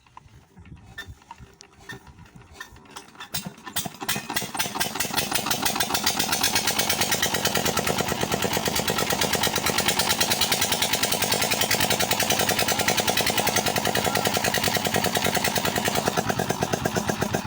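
Diesel engine of a tubewell pump starting: a few slow, uneven knocks, then about four seconds in it catches and runs up into a fast, steady chugging that holds for the rest of the time.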